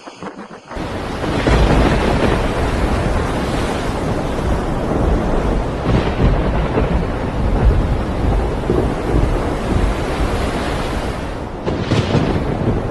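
Cyclone wind and rain buffeting the microphone: a loud, dense rushing noise, heaviest in the low rumble, that cuts in suddenly about a second in and holds steady.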